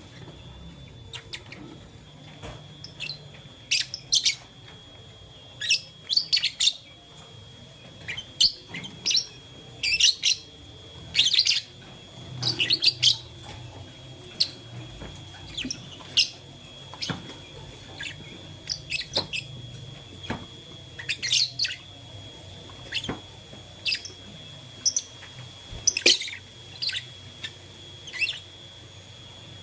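Lovebirds chirping: short, sharp, high-pitched chirps at irregular intervals, often two or three in quick succession.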